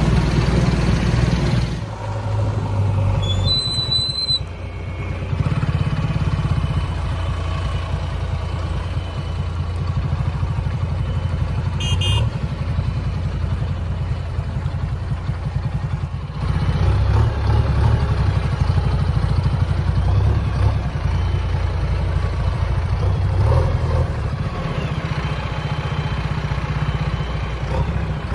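JCB backhoe loader's diesel engine running while the machine drives, getting louder a few times, most clearly about halfway through. Two brief high tones sound over it, one a few seconds in and one around the middle.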